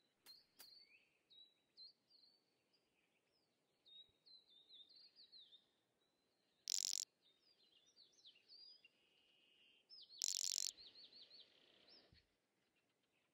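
Birds chirping in quick runs of short sliding high notes. Two short, loud hissing bursts come about seven and ten seconds in.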